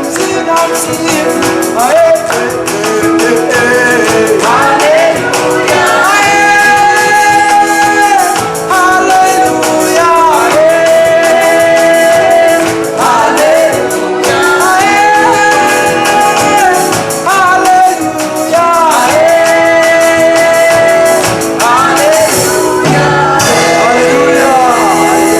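Gospel worship song performed live: voices singing a melody over instrumental backing with a steady beat.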